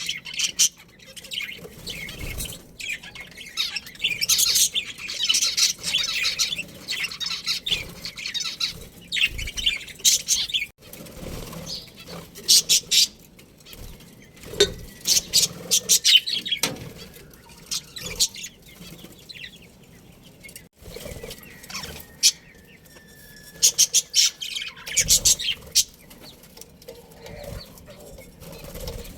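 A colony of budgerigars chirping and chattering in repeated bursts of short, high calls, with wings fluttering.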